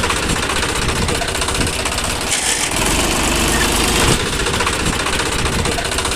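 A small engine or motor running steadily with a fast, even rattle.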